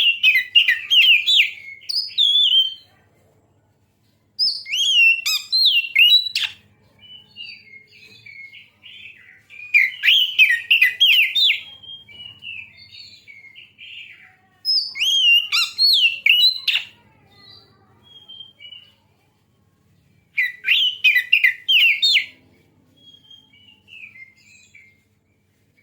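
Oriental magpie-robin (kacer) singing: loud, rapid, varied whistled phrases in five bouts of two to three seconds, separated by short pauses filled with softer scattered notes.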